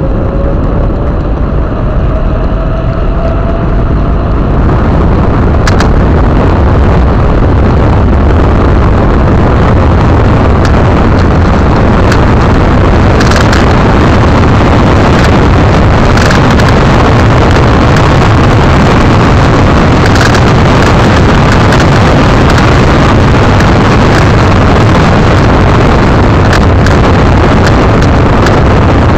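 Heavy wind buffeting on a bike-mounted action camera's microphone while cycling, with tyre and road noise. Louder after the first few seconds, with a faint rising whine early on and a few sharp clicks.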